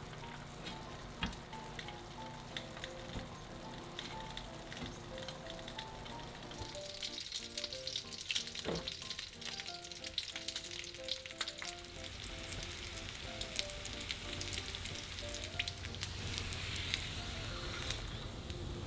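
Food frying in a hot pan, sizzling with a steady crackle of small pops that grows louder about seven seconds in, and one sharp tap near the middle. Soft piano music plays underneath.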